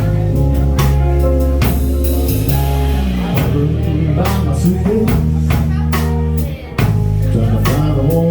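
Instrumental band music with drum kit, guitar and deep sustained bass notes, with no singing. The sound drops briefly about six and a half seconds in, then comes straight back.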